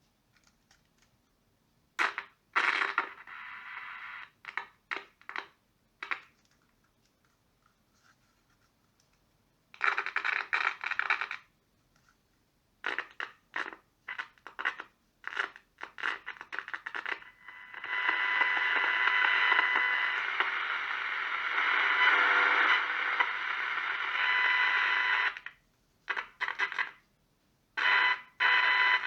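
Old Philips transistor radio's speaker giving stop-start bursts of static hiss, with a longer stretch of hiss and a faint steady whine in the second half; no station comes through.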